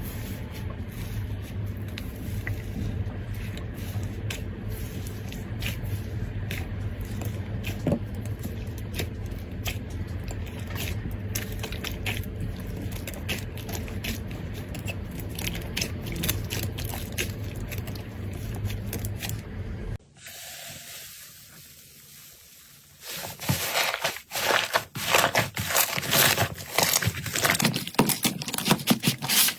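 Slime being squeezed and played with by hand: a run of small sticky crackles and pops over a low steady hum. About 20 s in the sound changes abruptly, goes quieter for a few seconds, then turns to louder, denser crackling.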